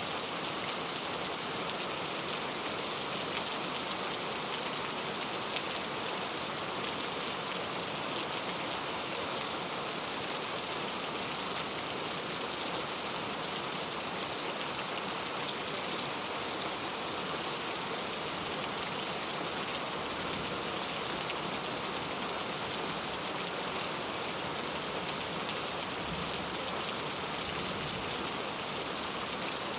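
Steady rainfall, a dense hiss of drops pattering on a surface, even in level throughout.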